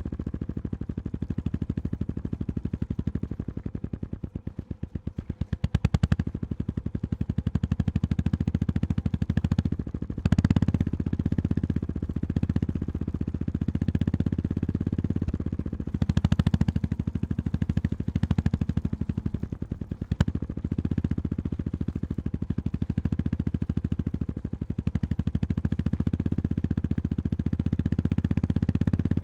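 Honda GB350S air-cooled single-cylinder engine pulsing at low revs as the motorcycle is ridden slowly over a rough forest road, the throttle closed and reopened several times.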